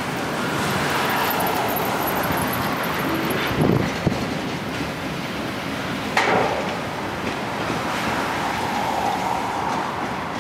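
Freight train rolling slowly past, its cars' wheels clacking over the rail joints with a steady rumble. There are a couple of sharper knocks, about four and six seconds in.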